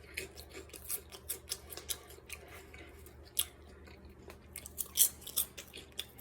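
Crispy microwaved pork rinds crunched while being chewed: irregular sharp crackles, loudest a little over three seconds in and twice around five seconds in.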